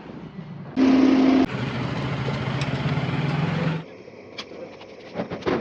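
A machine running with a steady low hum, starting suddenly about a second in, dropping a little in pitch and level partway, and cutting off abruptly near the end, with a few faint clicks after.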